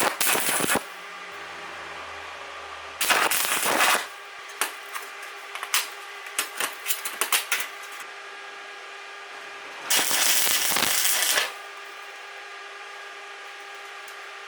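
Stick arc welding: three short bursts of arc crackle, each about a second long, like tack welds being laid. Between the second and third bursts comes a run of light metal clicks and taps. A steady hum runs underneath.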